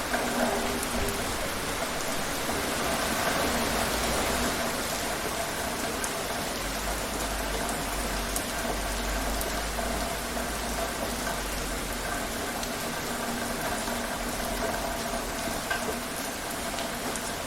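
Steady heavy rain falling, with scattered individual drops ticking against a surface.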